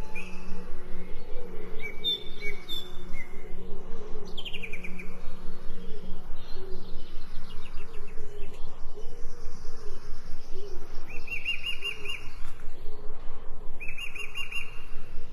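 Several birds chirping and calling, with a quick chattering trill about eleven seconds in and again near the end.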